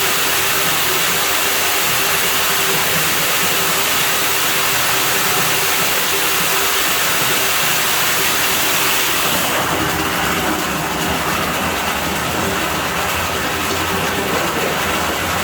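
Water rushing steadily with a loud hiss. About ten seconds in the high hiss drops and a lower rush is left.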